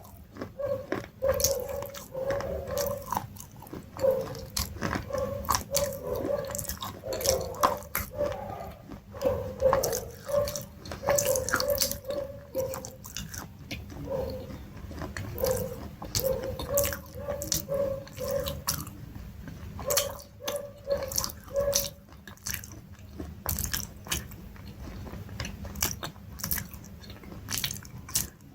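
A person biting and chewing crunchy food close to the microphone: many sharp, irregular crunches one after another.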